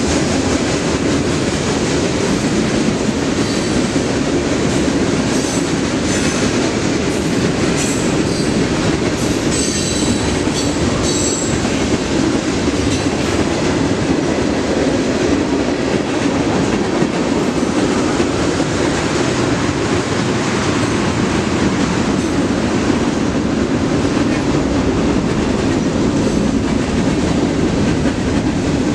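Freight train cars, covered hoppers and boxcars, rolling past on the rails: a steady, loud rumble and clatter of steel wheels on track.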